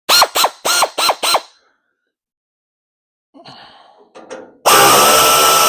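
A handheld power tool, driving the valance bolts out, blipped five times in quick succession with its pitch dropping after each blip. A few clicks follow, then about three-quarters of the way in it is run steadily with a loud hissing whir.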